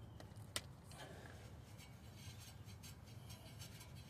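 Faint handling noises as car parts are worked into place: one sharp click about half a second in and a few light ticks and rubs, over a steady low hum.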